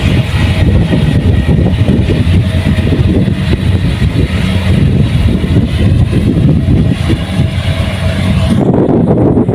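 Kubota rice combine harvester running steadily under load, a loud engine rumble with the clatter and hiss of its threshing machinery. Near the end the higher hiss drops away and the low rumble carries on.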